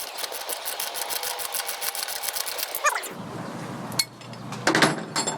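Ratchet socket wrench clicking rapidly for about three seconds as it turns a 14 mm engine mounting bolt on a Yamaha QT50 moped, then a few separate sharp metallic clicks near the end.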